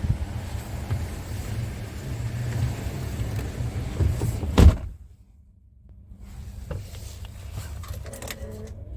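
Scania R410 tractor unit's six-cylinder diesel engine idling with a steady low rumble. About four and a half seconds in, a cab door shuts with a single loud thump, after which the engine is heard only faintly and muffled, with a few light clicks.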